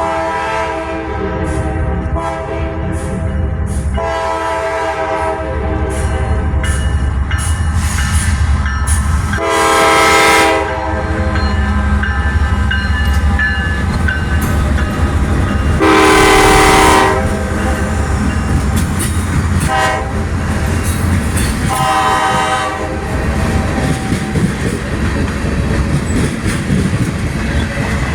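A diesel freight locomotive's K5LA five-chime air horn sounding repeated blasts over the steady rumble of the passing train, the loudest about ten and sixteen seconds in. Wheels click evenly over the rail joints during the first part.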